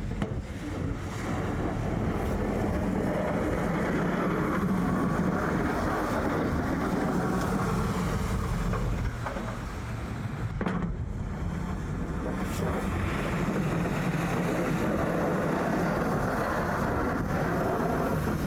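Snow plow truck driving, a steady engine and road noise with a brief drop in level about ten seconds in.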